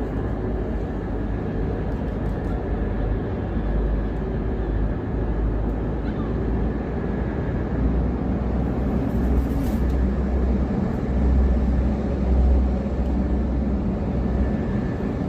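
Steady low outdoor rumble with no clear events, swelling and easing every second or two.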